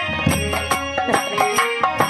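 Live Indian folk band music: a held, reedy melody line over quick dholak strokes with deep thumps.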